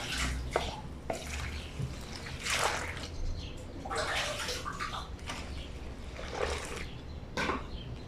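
Water splashing and sloshing in a granite lavadero as a blanket is washed by hand, in irregular swishes about a second apart.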